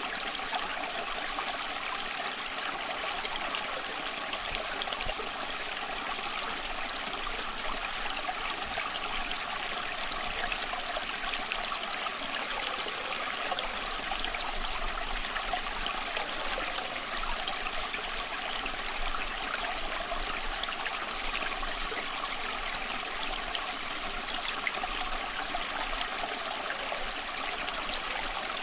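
Small stream of water running and trickling steadily over stones, a continuous splashing babble.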